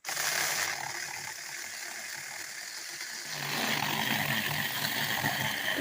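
Cedar wood being sawn: a steady cutting noise that grows deeper and fuller about three seconds in.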